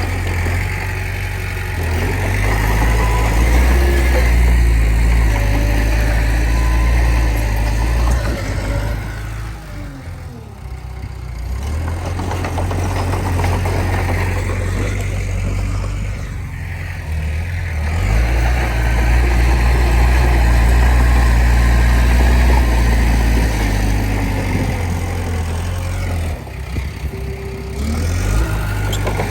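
Komatsu D20P bulldozer's diesel engine working under load, a heavy low rumble that swells and eases off in turn, dropping away briefly about ten seconds in, again around sixteen seconds and near the end, as the blade pushes and lets up.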